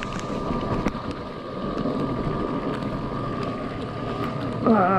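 Yatri P1 electric motorcycle riding over a rough road: a steady high motor whine over the rumble of tyres and wind noise on the microphone.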